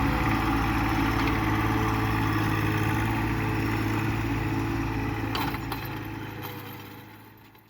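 John Deere 1025R compact tractor's three-cylinder diesel engine running at a steady speed, fading out over the last couple of seconds, with a couple of light clicks about five seconds in.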